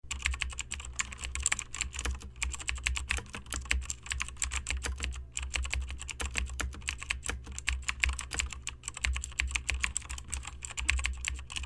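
Rapid, irregular clicking, many clicks a second, over a steady low hum.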